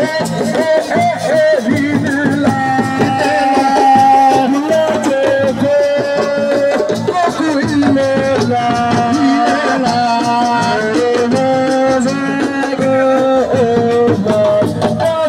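Assiko band playing: a lead voice sings a long, wavering, ornamented melody over drums and rattles.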